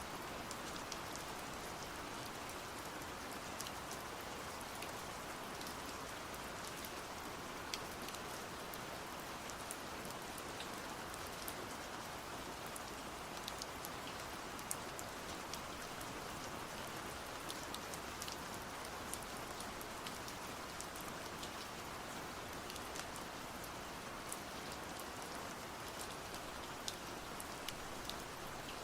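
Steady rain falling, with scattered sharp drips standing out now and then.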